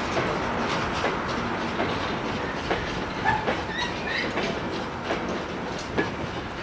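Train of steel mineral wagons rolling past with a brake van at the tail, the wheels clicking and clanking over rail joints over a steady rumble. A few brief squeals a little after three seconds in, and the sound eases slightly as the brake van goes by.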